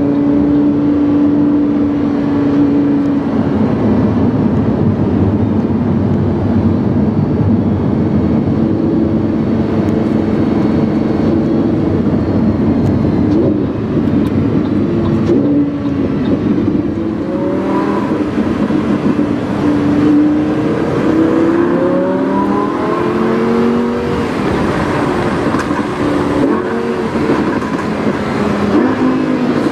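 Lamborghini Huracán's 5.2-litre V10 through a PowerCraft aftermarket exhaust, heard from inside the car while driving. It holds a steady drone at first, then about halfway through begins rising and falling in pitch again and again as it revs up and shifts.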